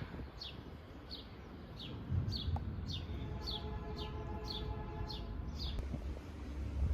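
A bird repeating a short, high, downward-slurred chirp about every half second, about ten times, stopping shortly before the end. Under it is a low outdoor rumble, and a steady droning hum joins in from about three seconds in for a few seconds.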